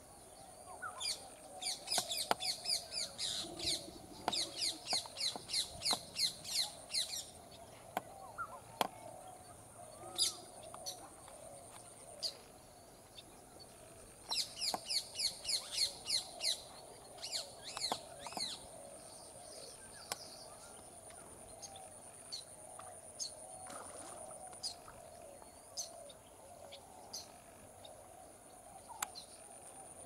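Small birds calling in fast runs of repeated high chirps, about five a second, twice for several seconds, with scattered single calls in between, over a steady thin high-pitched whine.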